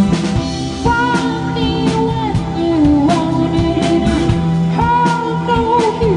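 A rock band playing live, with a singer holding long, gliding notes over steady drum hits.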